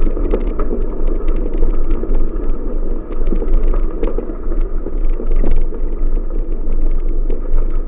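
Wind buffeting the microphone during a bicycle ride: a steady low rumble with many small clicks and rattles scattered through it.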